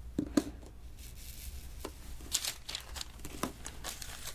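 Light scattered taps and short sticky crackles from diamond painting, with small resin beads being picked up and pressed onto the adhesive canvas.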